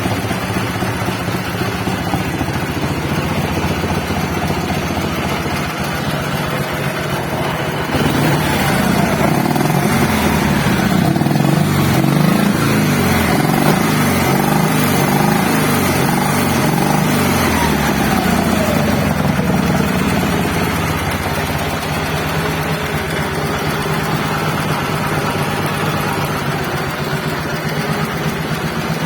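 Dnepr motorcycle's flat-twin engine running steadily. About eight seconds in it gets louder and the engine speed rises and varies, then falls back to a steady lower run after about twenty seconds.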